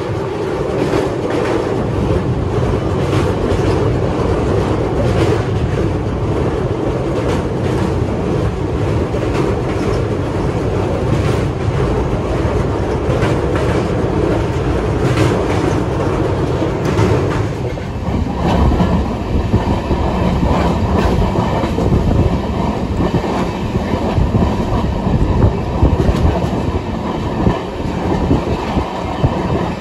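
Passenger train running at speed, heard at an open coach door: a steady rumble with wheels clattering over rail joints while it crosses a steel truss bridge. The sound changes about 18 seconds in, as the train comes off the bridge onto plain track.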